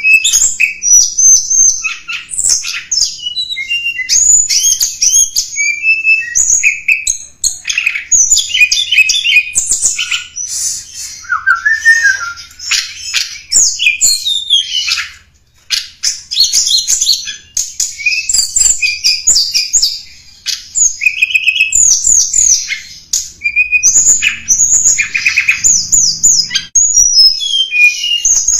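Tledekan gunung song: a dense run of rapid, high, sharp chirps and short trills, almost without a break, with a brief pause about halfway.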